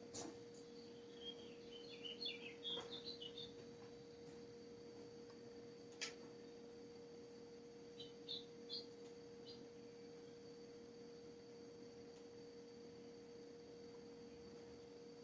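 Quiet ambience: a small bird chirping in quick high runs, twice, over a steady faint hum, with a couple of sharp clicks.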